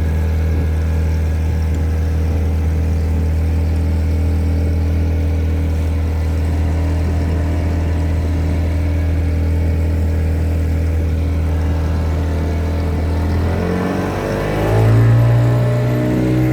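Boat engine running steadily with a low hum, then revving up about 14 seconds in, its pitch rising and staying higher.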